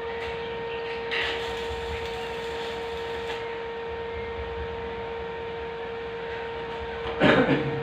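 A steady electrical hum over a low hiss, with a short, loud clatter about seven seconds in.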